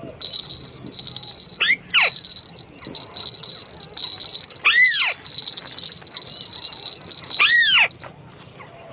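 White-browed crakes calling: three loud calls about three seconds apart, each a steep rise and fall in pitch, over a steady high rattling trill that cuts off about eight seconds in.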